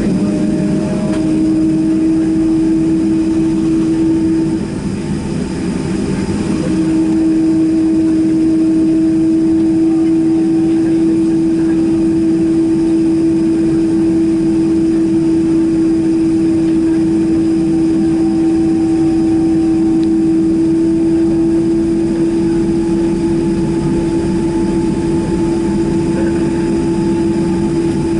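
Boeing 767-300ER's jet engines running, heard from inside the cabin as a steady whine over a low rumble. The whine drops out and the sound dips briefly about five seconds in, then returns.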